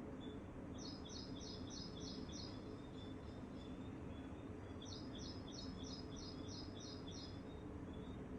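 A songbird sings two runs of evenly repeated high chirps, about three notes a second. The first run starts about a second in and the second near the middle, over a steady low background rumble.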